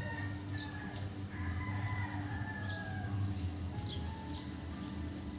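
Roosters crowing, long drawn-out overlapping calls, with a few short high chirps and a steady low hum underneath.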